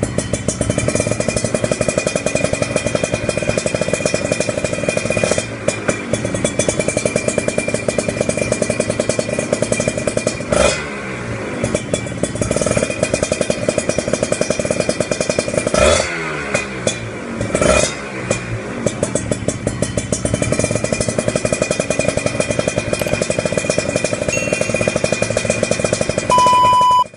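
Kawasaki Ninja 150 RR two-stroke single-cylinder engine running through a stainless-steel aftermarket exhaust, with a crisp, rattly note. The throttle is blipped briefly a few times, and the engine cuts off abruptly near the end.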